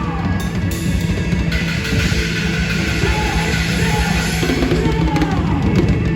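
Band music with a drum kit and bass playing a steady beat.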